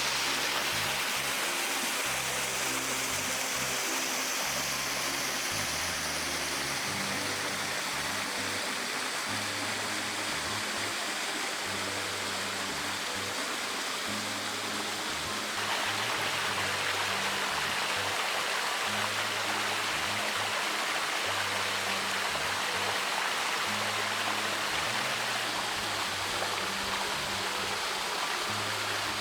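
Steady rush of a waterfall, growing suddenly louder about halfway through, with soft background music of slow, low held notes underneath.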